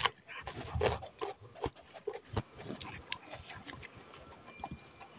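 Close-miked mouth sounds of eating noodles: wet chewing and lip smacking in irregular clicks and short bursts, loudest in the first second.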